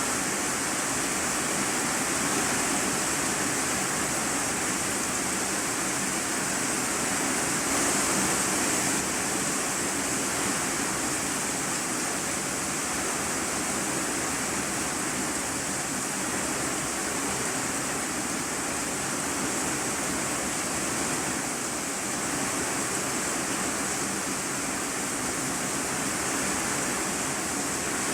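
Heavy rain falling on an iron-sheet roof, heard from the room beneath it: a steady, dense hiss, brightest in the high treble.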